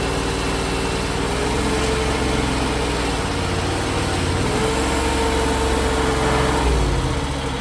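Landhero mini skid steer running under hydraulic load while it drives a stump grinder attachment. A steady engine note carries a whine that dips and rises in pitch, then drops away near the end.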